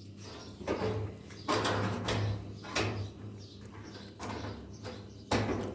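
A run of irregular scraping and knocking noises, about five of them, over a steady low hum.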